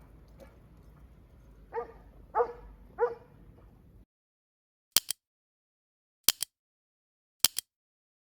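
A dog barks three times in quick succession. Then the sound drops to silence, broken by three sharp double clicks spaced over a couple of seconds.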